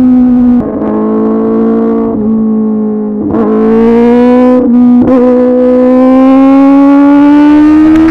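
2024 Kawasaki ZX-10R's inline-four engine through an SC-Project CRT exhaust, running hard at steady high revs. Its pitch climbs slowly, broken by several short dips where the throttle is eased or the rider shifts.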